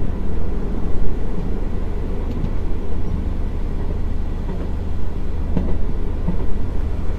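Diesel multiple-unit (DMU) passenger train running with a steady low rumble as it pulls into a station halt.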